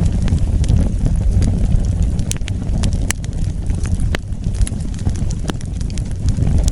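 Wood fire burning: a steady low rumble of flames with irregular sharp crackles and pops of the burning wood.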